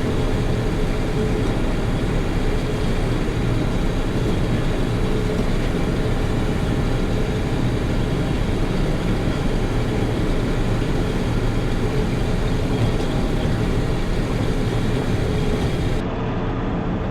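Combine harvester running steadily under load while harvesting soybeans: a continuous engine and machinery drone with a low hum.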